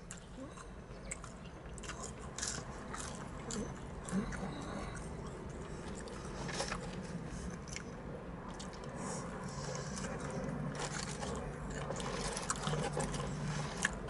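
Close-up sounds of a person biting and chewing fried battered whiting and fries, with many short, scattered crunches and mouth noises.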